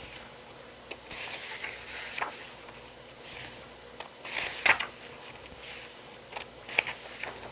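Pages of an album's photo book being turned and handled: several short paper rustles and swishes, with a few sharp taps, the loudest about two thirds of the way through.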